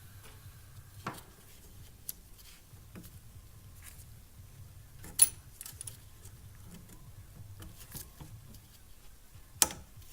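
Scattered sharp clicks and light knocks as fuel injectors and their retaining clips are handled and pressed into an LS fuel rail. The two loudest come about five seconds in and near the end.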